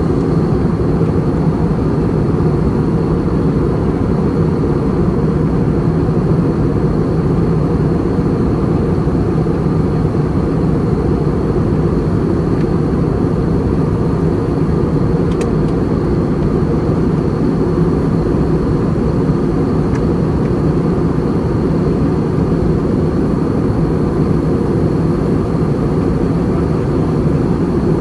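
Steady cabin noise of an Airbus A320 in flight: an even rush of air and engine drone, with a low hum and a faint high whine underneath, unchanging throughout.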